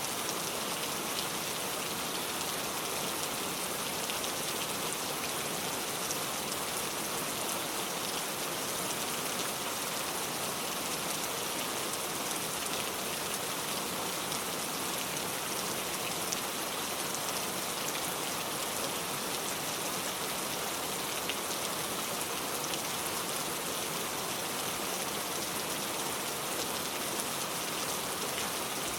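Steady rain falling on a surface, with fine patter of individual drops and no let-up.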